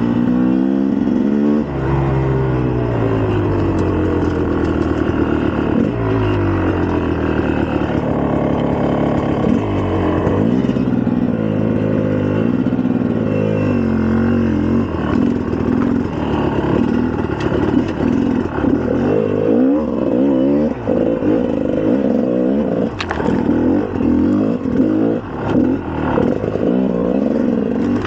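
2004 GasGas EC300's 300cc two-stroke single-cylinder engine being ridden, its pitch climbing and dropping again and again as the throttle is worked through the gears. In the second half the revs come in shorter, choppier bursts with quick throttle blips and drops.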